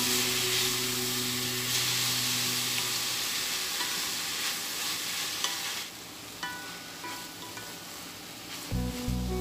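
Water spinach with garlic sizzling in hot oil in a pot while a wooden spatula stirs and turns it. The sizzle falls off sharply about six seconds in, leaving light scrapes and clicks of the spatula against the pot.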